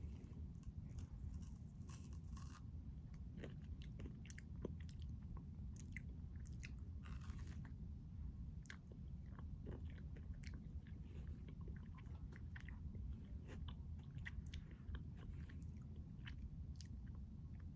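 Close-miked chewing of a chocolate-coated crunch ice cream bar: irregular small crunches and wet mouth clicks over a low steady hum.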